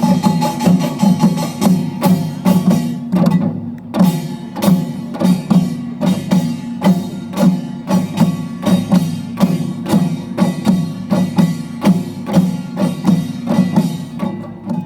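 Utdari-style samul nori ensemble playing a fast, driving rhythm: the kkwaenggwari small gong clattering over janggu hourglass drum and buk barrel drum strokes, with the jing gong beneath. The metallic clatter thins briefly about three and a half seconds in, then the full ensemble picks up again.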